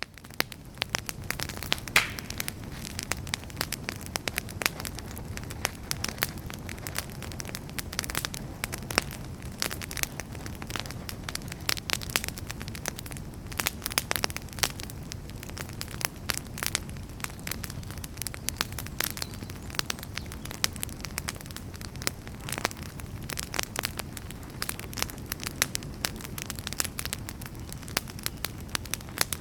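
Wood fire burning in a fireplace, crackling with frequent irregular sharp pops and snaps over a steady low noise of the flames.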